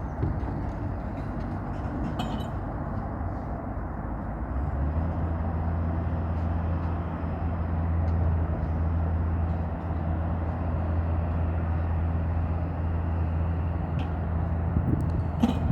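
Steady low rumble like a running engine or motor, joined about five seconds in by a deep steady hum that holds on; a few short clicks, one near the end.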